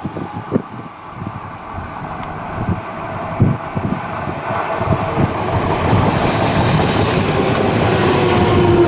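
Odakyu 3000 series electric train approaching, its rumble growing steadily louder, with a steady whine and the hiss of the wheels coming in about six seconds in.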